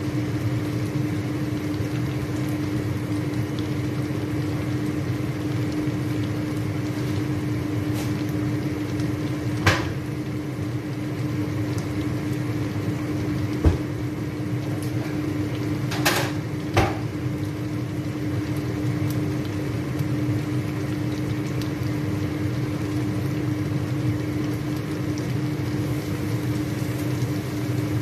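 Chicken pieces frying in oil in a pan, over a steady hum that carries a constant low tone. A few sharp clicks come around the middle, two of them close together.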